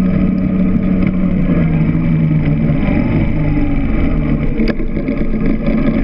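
Motorcycle engine running at low speed, heard close from a camera mounted on the bike, with its pitch shifting a little midway. A single sharp click comes near the end.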